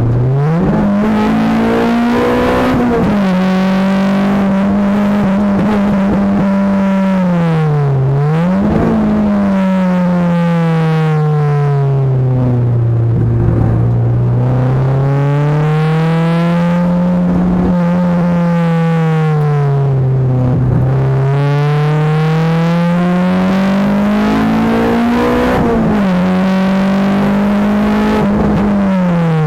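Honda Accord Type R's 2.2-litre VTEC four-cylinder engine under hard track driving, heard from inside the cabin: the engine note climbs steadily with the revs, falls sharply on braking and downshifts about four times, then rises again, running lower for a stretch midway.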